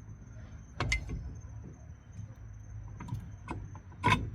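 Scattered metal clanks and knocks from a small truck-mounted crane, its hook and strap and a steel engine stand being handled, over a steady low hum; the loudest knock comes near the end.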